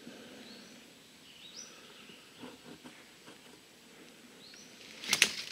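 A small bird gives a few short, high, rising chirps over quiet forest background. About five seconds in, dry twigs and brush crackle and snap loudly, close by.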